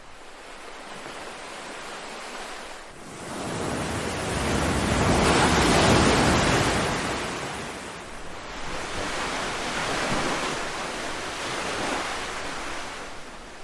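Ocean waves washing onto a shore: one large swell builds and breaks about five to seven seconds in, then recedes, followed by a gentler wave near the end.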